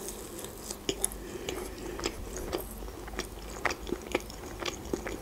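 A person chewing a fried chicken nugget close to the microphone, mouth closed: soft chewing with irregular sharp crunchy clicks.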